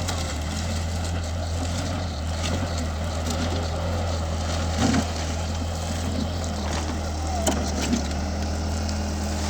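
Bobcat skid-steer loader's engine running steadily under work, with a couple of sharp knocks near the middle and later on.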